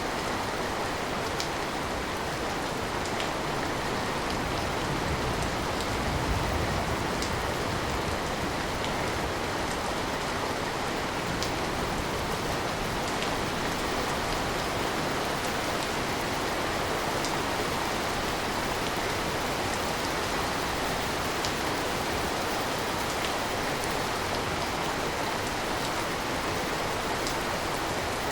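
Steady rain falling, with individual drops ticking here and there over the even hiss.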